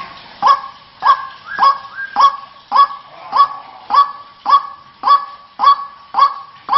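White-breasted waterhen (ruak-ruak) calling over and over in a steady, monotonous series of sharp, honking notes, a little under two a second. This is the call used as a lure to draw the birds in.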